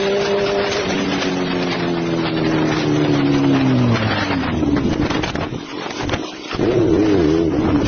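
Motorcycle engine running, its pitch falling steadily over about four seconds as it slows, then a rougher stretch and a quickly warbling tone near the end.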